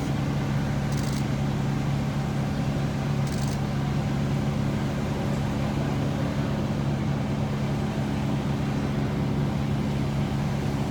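A vehicle engine idling, a steady unchanging drone, with two brief faint hisses about a second and about three seconds in.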